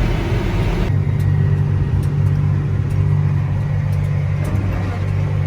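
Vehicle road rumble, then a cut about a second in to a tractor engine running steadily with an even low drone.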